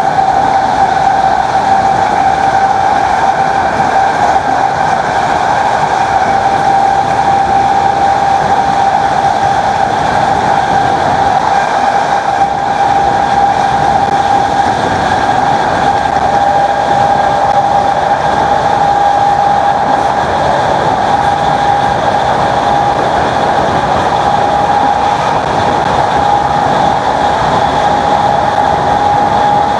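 Class 321 electric multiple unit's traction motors running at speed: a loud, steady whine over rumble and track noise, the pitch edging slightly higher in the second half.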